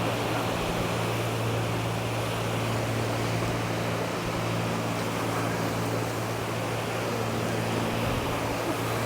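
Seaside ambience: a steady low engine-like hum over a constant wash of wind and surf noise.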